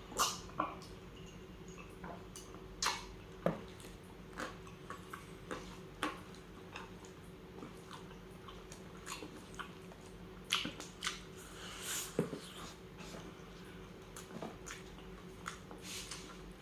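Close-miked mouth sounds of a person eating tuna sisig: irregular wet chewing, smacking and lip clicks.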